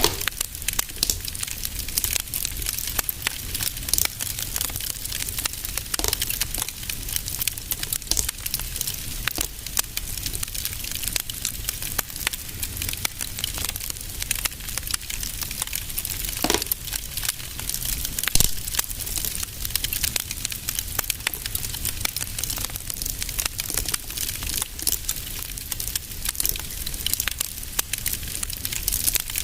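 Wood fire in a fireplace crackling steadily, with dense small crackles and a few louder pops over a low rumble.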